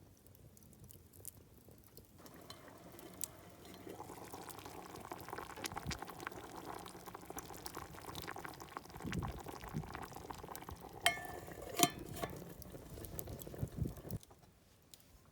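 Liquid bubbling and crackling, starting and stopping abruptly, with a couple of sharp clinks near the end.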